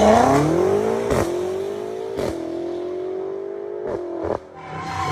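Sports car engine accelerating: its note climbs over the first second, then holds at a steady, slowly rising pitch, with a few short clicks along the way.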